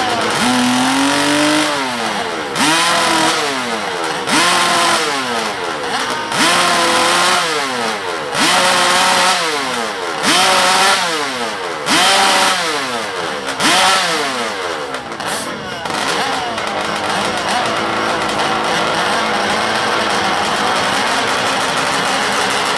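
Drag trike's motorcycle engine revved in a string of sharp blips, about one every two seconds, each snapping up in pitch and falling back, seven or eight times. After about 15 seconds it settles into a steady run.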